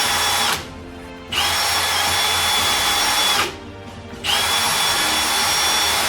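Power drill run in repeated bursts of about two seconds: a burst ends just after the start, a second runs from about a second in to past the middle, and a third starts about four seconds in. Each time the motor whine spins up and winds down, with harsh cutting noise from drilling the misaligned holes.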